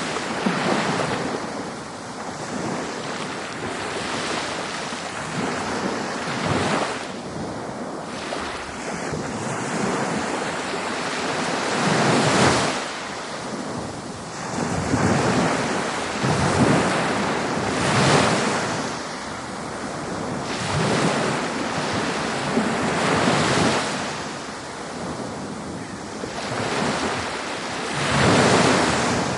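Ocean waves breaking on a beach. The surf rises and falls, and louder breakers crash every few seconds over a steady wash of water.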